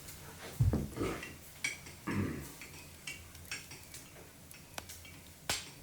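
Wood fire crackling in a cabin stove: scattered sharp pops at irregular intervals, with a couple of duller knocks in the first two seconds.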